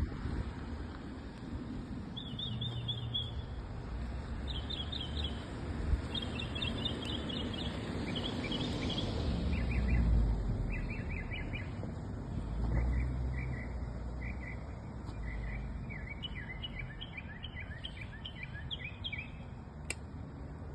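A songbird singing phrases of quick repeated chirps, higher at first and then a little lower for the second half, over a steady low rumble that swells near the middle.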